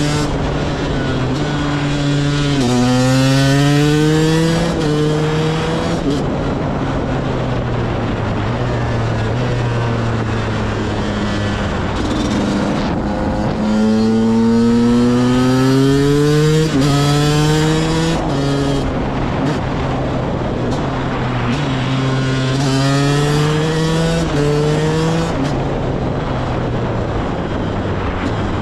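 2010 KTM 125 EXC two-stroke engine with a CRD expansion chamber, under way. It accelerates hard three times, the pitch climbing and stepping down at each upshift, and holds steadier, lower revs in between.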